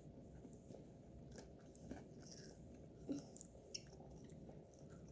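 Faint chewing and biting on crispy sauced chicken wings, with scattered small crunches and clicks; one slightly louder click about three seconds in.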